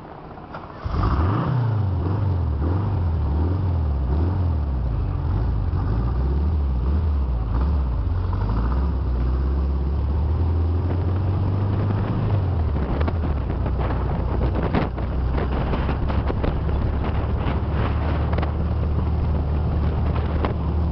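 Motorcycle engine running loud, starting up about a second in. Its pitch rises and falls repeatedly as it revs and pulls away, then settles to a steadier pitch at a constant speed.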